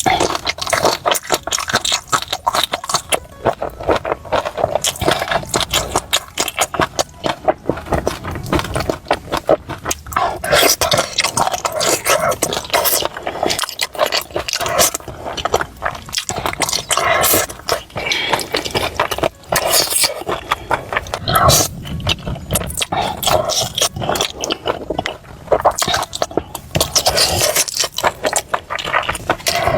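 Close-miked eating: a person chewing and smacking on soft, sticky stewed food, a steady stream of wet clicks and crackles.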